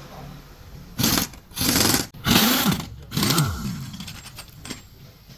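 A small motorized tool run in four short bursts, its pitch rising and falling within each, the last winding down.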